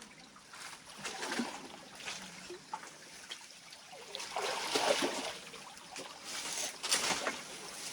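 Stream water trickling and splashing, with a few louder splashes in irregular bursts, the second half busier.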